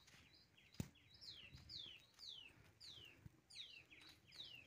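Birds calling faintly: a steady series of short repeated chirps, joined about a second in by a run of quick downward-slurred whistles, roughly two a second. One sharp click just under a second in.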